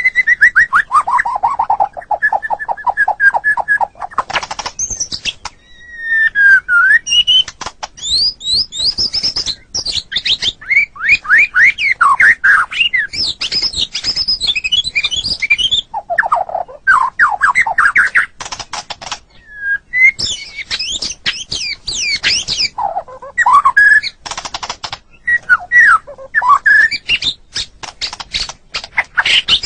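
White-rumped shama (murai batu) singing a long, varied song: fast whistled sweeps, rapid runs of repeated notes and harsh clicking rattles, in phrases broken by short pauses. It opens with a descending series of quick notes.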